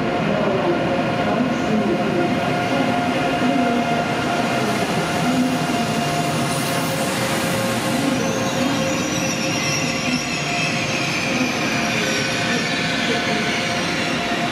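ICE 3 high-speed electric train running into an underground station platform, with a steady hum from its traction equipment over the rumble of the wheels. About halfway through, a high wheel and brake squeal sets in, sliding slowly down in pitch as the train brakes for its stop.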